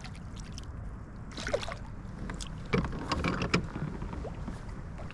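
Knocks, clatters and splashy rustles of a fish being handled in a kayak, over a steady low rumble of wind on the microphone.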